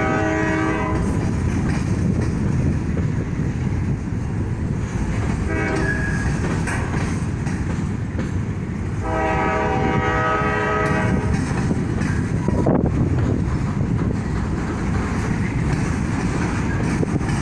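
A freight train of covered hopper cars rolling past a grade crossing: a steady rumble and clatter of steel wheels on the rails. A train horn sounds for about two seconds around nine seconds in, with shorter, fainter horn notes near the start and about six seconds in.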